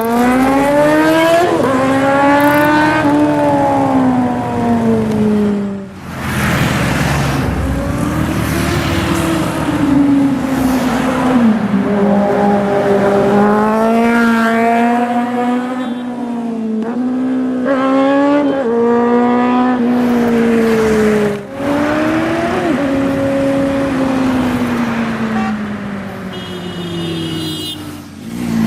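High-revving motorcycle engines accelerating and easing off, the pitch climbing and falling again and again, in several clips cut together with sudden breaks about six seconds in and about two-thirds through.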